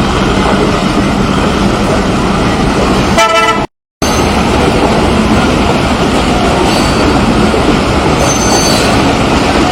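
Loud steady rushing noise, with a brief horn toot about three seconds in, just before the sound cuts out for a moment.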